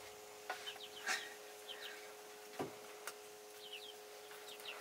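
Faint short chirps of small birds, several in quick pairs, over a steady low hum, with a few soft knocks, the clearest about halfway through.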